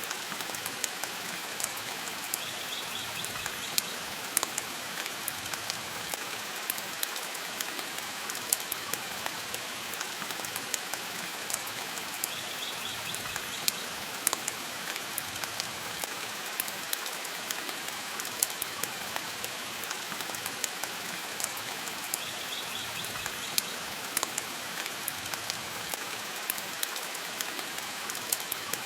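Steady rain hiss with a dense scatter of sharp, irregular crackles and pops from a wood fire in a fireplace.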